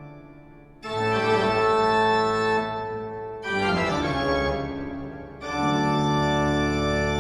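Organ music: three long sustained chords, each coming in sharply and then fading away before the next.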